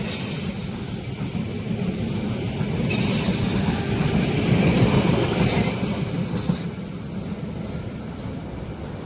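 Train passing: steady low rumble of wheels on the rails, swelling with a hissing rail noise about three seconds in and easing off after about six seconds.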